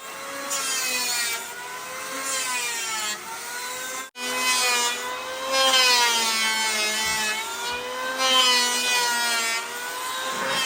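Handheld electric power tool cutting wood: its motor whine repeatedly dips in pitch as it bites into the timber, then recovers. The sound breaks off abruptly about four seconds in and starts again.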